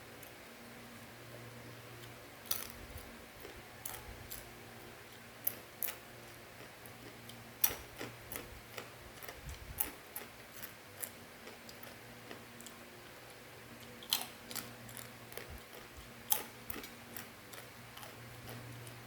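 Irregular sharp clicks and crunches of someone chewing crunchy fried macaroni snack, over a steady low hum.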